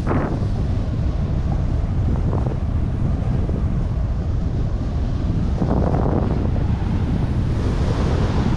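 Wind buffeting the microphone of a camera carried down a ski run, with a steady low rumble and swells of hiss from skis running through powder snow about six seconds in and again near the end.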